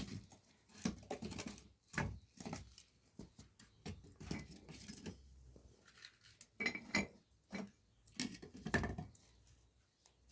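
Irregular clinks and knocks of cookware and utensils being handled, with a short ringing clink about seven seconds in.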